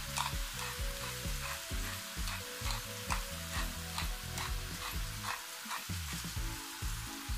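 Wild mushrooms sizzling steadily as they sauté in oil in a pan, with light ticks and clicks over the hiss.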